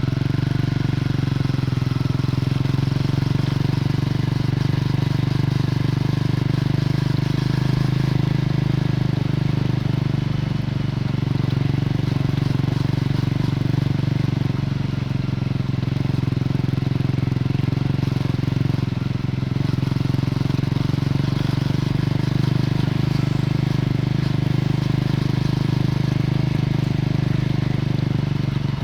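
Triumph Scrambler 400 X's single-cylinder engine heard through its stock exhaust while the bike is ridden, running at a steady pitch.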